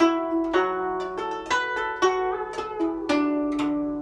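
Guzheng being plucked: a passage of single ringing notes, some played in quick pairs, over a sustained low bass string.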